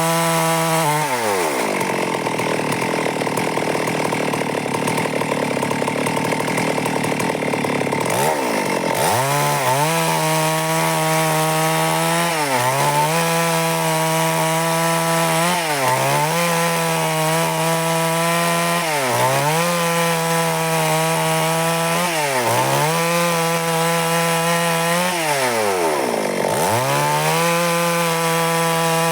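Stihl MS382 two-stroke chainsaw cutting through wood at high revs. About a second in its pitch drops right down for several seconds, then climbs back around nine seconds in. After that it holds a high note that dips briefly every three to four seconds.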